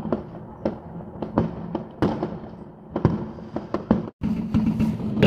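Fireworks going off all around: an irregular run of sharp bangs and cracks, some close and loud, others faint and distant. The sound drops out briefly about four seconds in, then the bangs go on.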